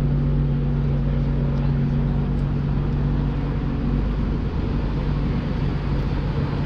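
Nissan GT-R50 by Italdesign's twin-turbo V6 idling steadily with an even hum and no revving.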